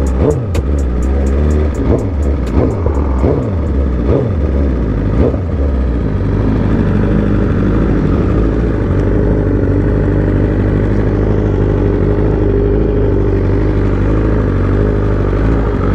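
Motorcycle engines revving, with repeated rises and falls in pitch for about the first six seconds. They then run steadily until the sound cuts off suddenly at the end.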